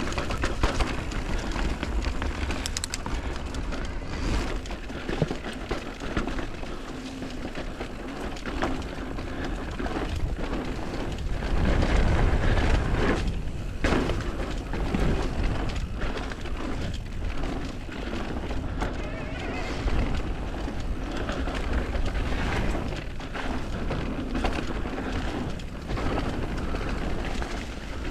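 A mountain bike rides down a dirt trail, heard from a bike-mounted or rider-worn camera: steady wind rumble on the microphone, tyre noise, and frequent knocks and rattles of the bike's frame and chain over roots and rocks.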